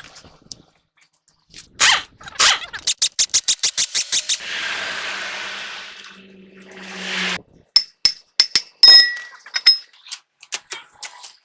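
Tool and metal-part sounds during work on a truck differential: a quick run of sharp clicks, then a steady hiss with a low hum for about three seconds, then scattered metallic clinks.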